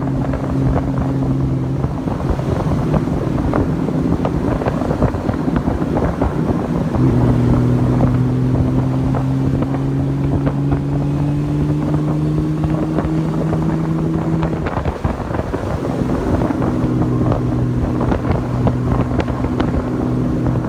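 Honda Valkyrie motorcycle's flat-six engine running on the road, heard under heavy wind noise on the microphone. Its steady note fades out a couple of seconds in, comes back about seven seconds in and climbs slowly in pitch as the bike gathers speed, then settles to a steady cruise.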